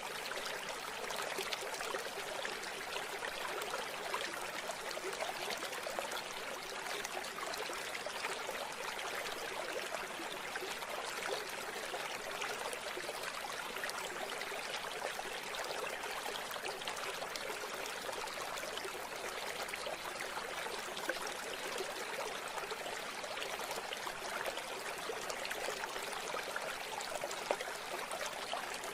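River or stream water running steadily over rocks, a continuous even rush and trickle.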